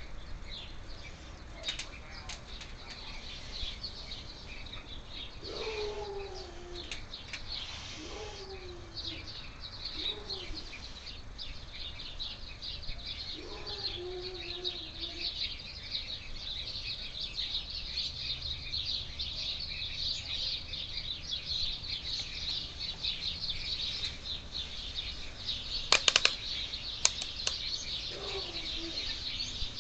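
Many small birds chirping continuously, with a few lower calls that fall in pitch heard several times. A handful of sharp clicks come near the end.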